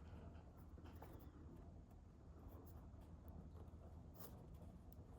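Near silence with faint, scattered scratching of writing on paper.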